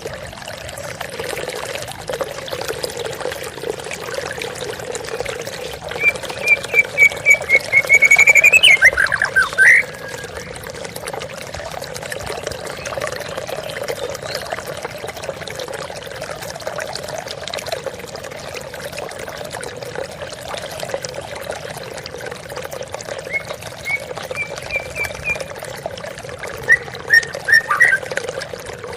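Waterfall water splashing steadily throughout. A songbird sings a quick run of whistled notes about six seconds in, ending in sweeping glides, then gives shorter whistled phrases near the end.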